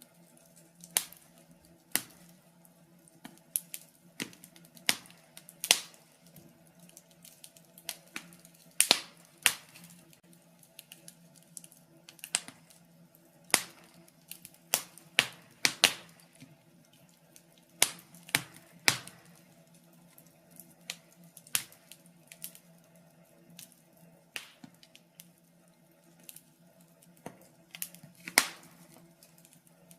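Wood fire crackling: irregular sharp pops and snaps, one to three a second and some much louder than others, over a faint steady hum.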